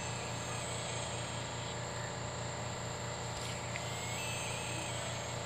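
Steady low hum with an even hiss and a faint constant high tone; no bird call is heard.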